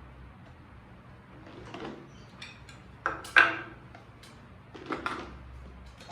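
Several separate knocks and clatters of kitchen items being handled and set down on a counter, the loudest about three and a half seconds in.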